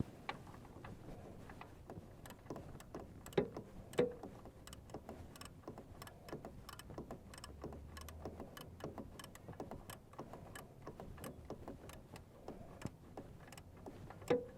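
Ratchet wrench with a 19 mm socket clicking in a steady run, about three clicks a second, as it tightens a PCV valve into the engine. A few louder metal knocks come about three and four seconds in and again near the end.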